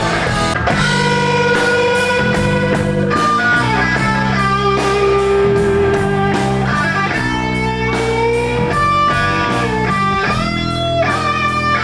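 Live blues-rock band playing an instrumental passage: an electric guitar plays held, wavering and bending lead notes over bass guitar and a drum kit keeping a steady beat.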